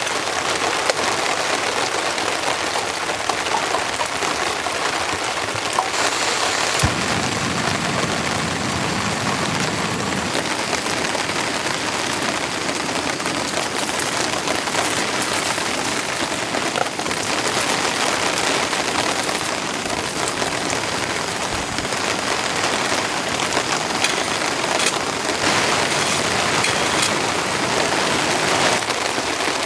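Heavy rain falling steadily in a storm, a dense even downpour without a break.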